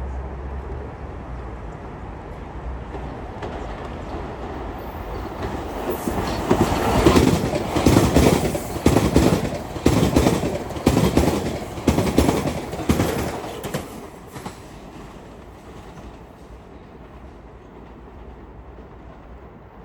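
A Metro-North commuter train passes at speed. Its wheels clack in a steady rhythm over the rail joints, loudest in the middle, then fade to a low rumble as it goes by.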